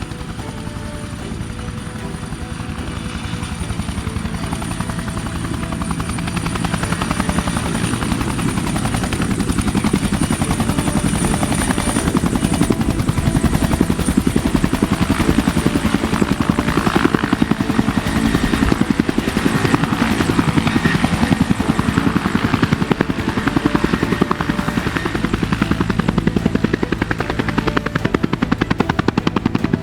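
Helicopter running with a steady rapid rotor chop and a thin high whine, growing louder over the first ten seconds or so.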